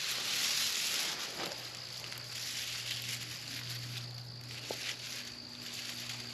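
Dry leaves and brush rustling and crunching, loudest in the first second and a half, with a few small snaps. A faint steady low hum sits underneath.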